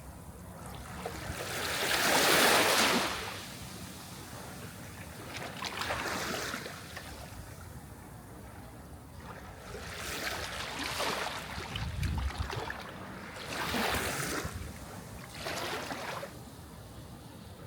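Sea waves breaking and washing in, swelling and fading every few seconds, with the biggest surge about two to three seconds in.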